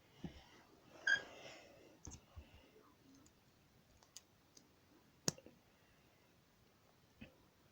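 Lego plastic pieces clicking and rattling as they are handled and pressed together: about eight short sharp clicks at irregular intervals, with a brief rustle about a second in, and the loudest click a little after five seconds in.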